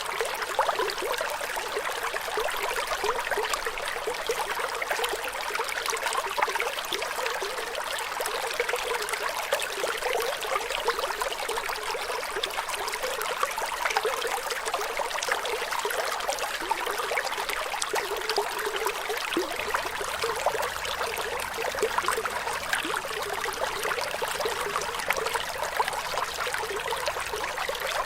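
Water trickling and splashing steadily, like a small stream.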